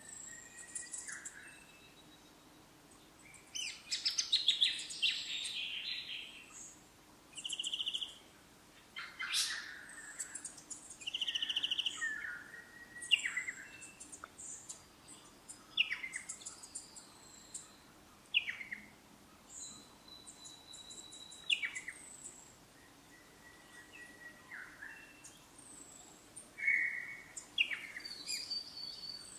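Wild birds in eucalypt bushland calling and singing in a mix of varied calls: chirps, short rapid trills and downslurred notes. A long steady whistle comes about twenty seconds in.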